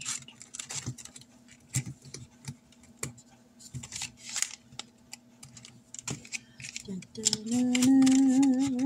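Light irregular clicks and rustles of paper, cash envelopes and a pen being handled, then a woman humming a long wavering note near the end.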